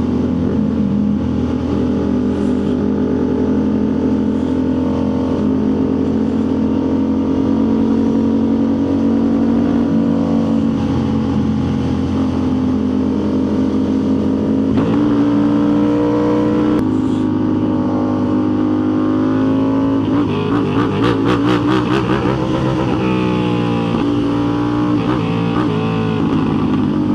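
Motorcycle engine running under way at steady revs, with abrupt pitch steps about halfway through and revs rising and falling over the last few seconds.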